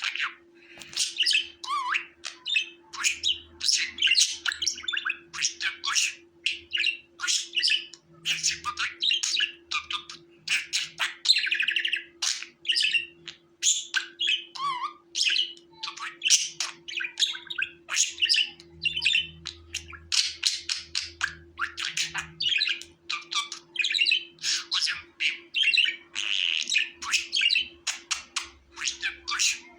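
Budgerigars chirping and warbling nonstop, a rapid run of short chirps with squawks mixed in. A faint steady hum runs underneath.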